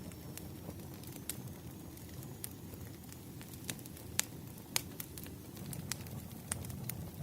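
Wood fire burning with irregular crackles and snapping pops over a low steady rumble; the two sharpest pops come about four and five seconds in.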